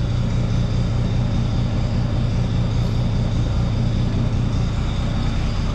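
Oliver 1600 Industrial tractor's engine running steadily at a constant speed.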